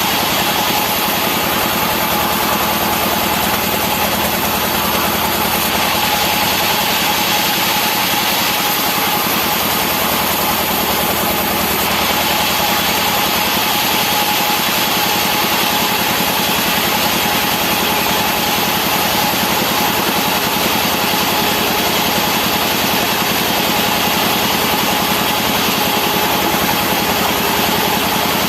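Engine-driven sawmill machinery running steadily, a constant engine drone with a steady whine over it and no breaks.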